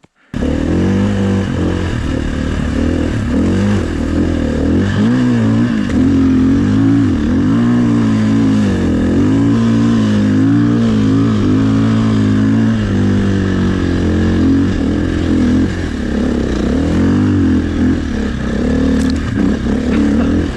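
Dirt bike engine running under load, its revs rising and falling continually with the throttle. It starts abruptly about a third of a second in.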